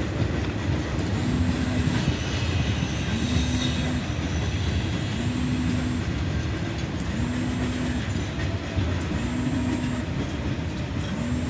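A train running at a railway station: a steady low rumble, with a short, even tone repeating about every one and a half seconds.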